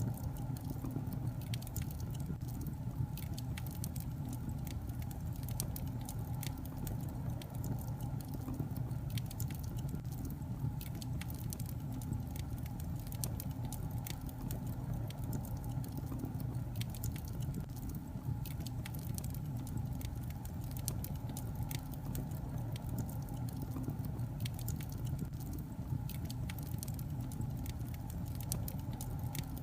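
Wood logs burning in a fireplace, crackling: frequent small, irregular pops and snaps over a steady low-pitched noise of the fire.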